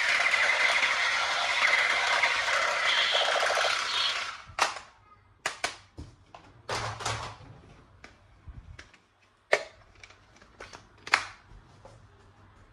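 A steady, dense noise with a few tones for about four seconds, then about a dozen sharp plastic clicks and snaps at irregular intervals from handling toy guns.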